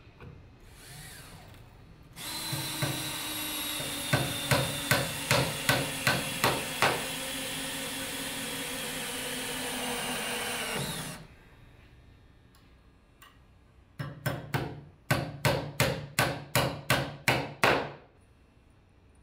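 A cordless power driver runs for about nine seconds, sinking a long 6-inch structural screw into framing lumber, its motor pitch sagging slightly under load, with sharp knocks partway through. After a short pause comes a quick run of about a dozen hammer blows, driving nails.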